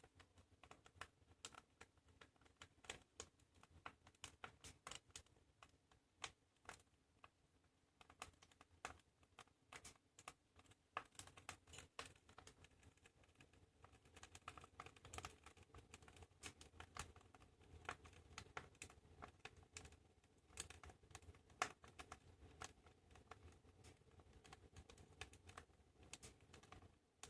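Fire burning in a fireplace, crackling and popping irregularly over a low rumble.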